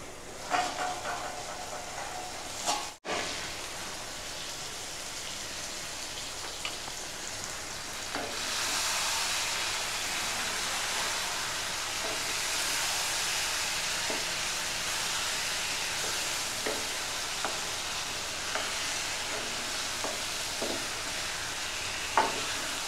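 Chicken pieces in tomato-onion masala sizzling and frying in a non-stick pan while being stirred with a spatula, with occasional light scrapes and taps of the spatula on the pan. A metal lid rings briefly as it is lifted off near the start, and the sizzle grows louder about eight seconds in.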